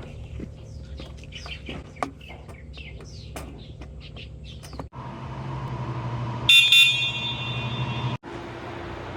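Birds chirping over a low hum; about five seconds in the sound changes abruptly to a steady vehicle hum, with a short horn toot about a second later as the loudest sound.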